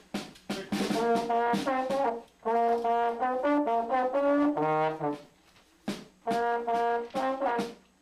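A brass instrument playing a practice piece for band: a series of held notes in two phrases with a pause between them. A few drum hits come in the first second.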